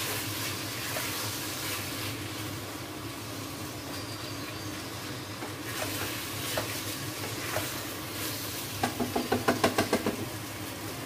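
Rice, chopped barbecue meat and sofrito sizzling as they sauté in the pot of a Cecotec Olla GM electric multicooker, stirred with a spoon. The spoon knocks against the pot now and then, and near the end there is a quick run of short spoon strokes.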